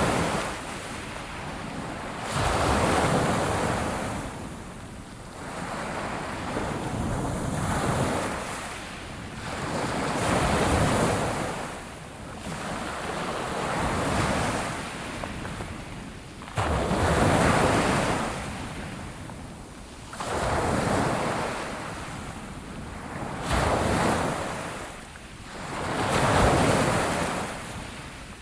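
Sea waves breaking on a shore and washing back, one surge after another about every two to three seconds, some arriving with a sudden crash.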